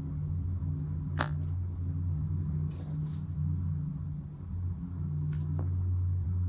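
Steady low hum, such as a fan or appliance running in the room, with a few light clicks and taps of small parts being handled.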